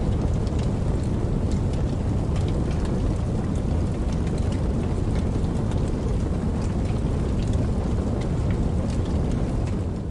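Steady rain falling, with a dense low rush and many scattered sharp drop ticks.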